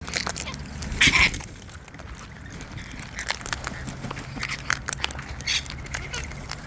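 Wild parrots at a feed: many short sharp taps and clicks of birds pecking and moving about, with one loud harsh screech about a second in.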